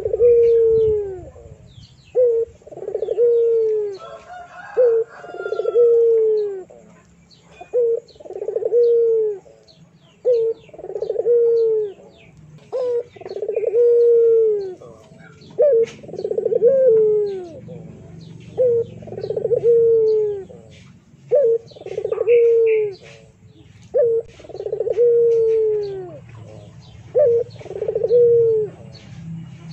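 A bird repeating a two-part call every two to three seconds: a short note, then a longer falling note. Fainter high chirps come in between, over a low steady hum.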